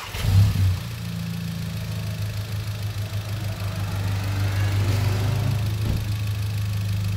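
Volkswagen Golf GTI Mk7's 2.0-litre turbocharged four-cylinder engine starting with a brief flare, then settling into a steady idle. It is being idled to circulate an engine flush additive through the oil before an oil change.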